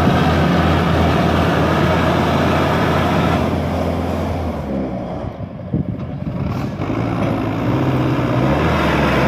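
A tractor's diesel engine running hard. It drops off for a couple of seconds around the middle, with a single sharp knock, then picks back up.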